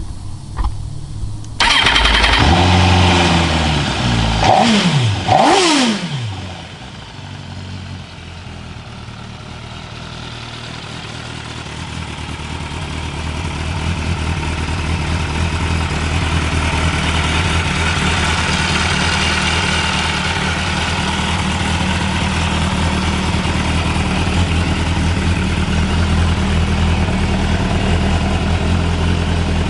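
2016 MV Agusta F4RR's inline-four engine firing up about a second and a half in, revved a few times with the pitch rising and falling back, then settling into a steady idle that slowly grows louder over the next several seconds.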